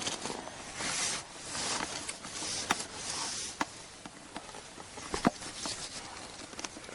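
Handling noise from a freshly landed fish being dealt with: soft rustling in several washes, with three sharp clicks a little under three, three and a half, and five seconds in.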